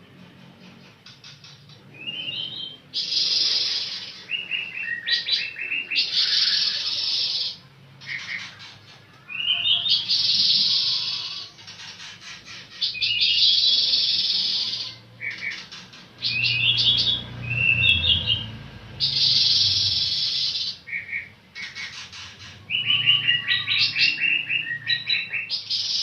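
Pancawarna songbird singing in repeated phrases of rapid, high chirps and trills, each a second or two long, with short pauses between.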